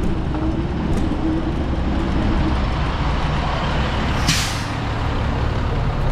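Street traffic rumble with a heavy vehicle such as a bus or truck close by, and a short, sharp hiss of air brakes released about four seconds in.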